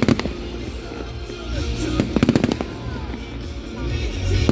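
Aerial fireworks bursting in quick clusters of sharp bangs and crackles, one right at the start, a dense run about two seconds in and another at the end, over a steady low rumble.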